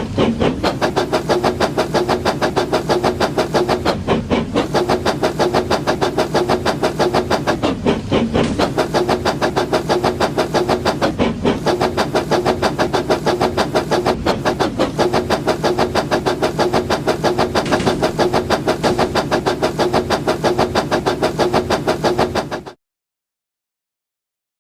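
Battery-powered toy train running: a steady motor whir with a fast, even clatter from its gears and wheels, cutting off suddenly near the end.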